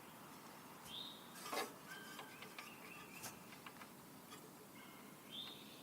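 Faint bird chirps, short high notes scattered through the quiet, with a few light clicks, the loudest about one and a half seconds in.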